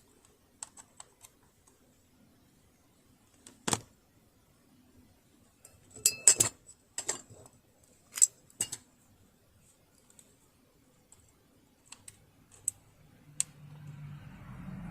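Small metal clicks and clinks of tools and parts being handled while a Riccar Bernina Holidayne 1090 sewing machine is taken apart for oiling, with a sharp clank about three and a half seconds in and a cluster of clinks in the middle. A low hum comes up near the end.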